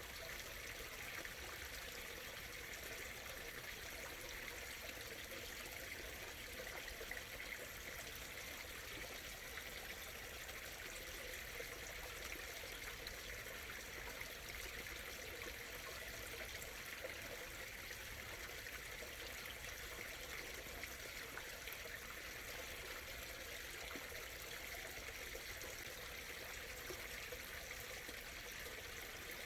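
Small stream murmuring and trickling steadily over stones, an even, unbroken babble of flowing water.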